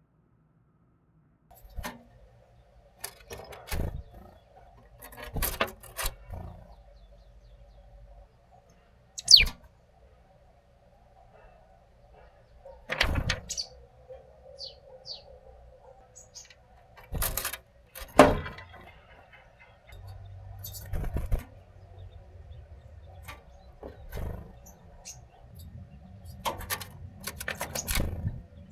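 Small birds at a feeder: irregular sharp taps and clicks, a few short high chirps, and one quick falling call about nine seconds in, over a faint steady hum.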